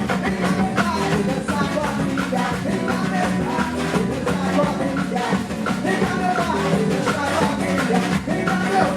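Live band music with singing over acoustic guitar, bass, trombone and a full hand-percussion section playing a steady dance rhythm.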